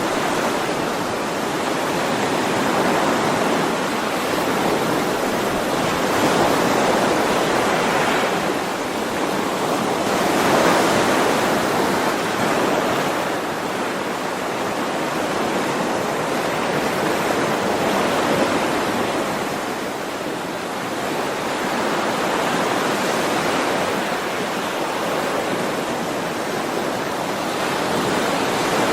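Ocean waves: a steady rush of surf that swells and eases every few seconds as waves break and wash in.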